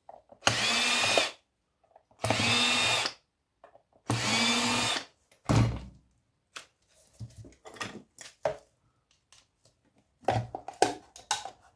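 Cordless drill-driver running in three short bursts of about a second each, backing screws out of old electronics. Scattered light clicks follow, then a brief clatter near the end.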